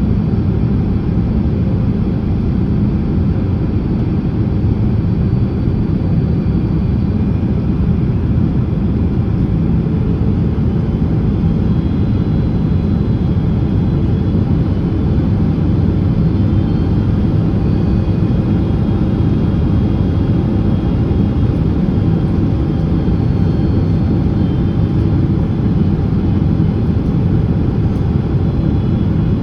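Steady cabin noise inside a Boeing 767-300ER on final approach: a low rumble of airflow and the twin jet engines, with faint steady high tones above it.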